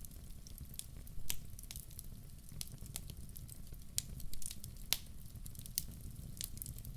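Wood fire crackling in a fireplace, with irregular sharp pops over a low steady rumble. The loudest pops come about a second in and again near the middle.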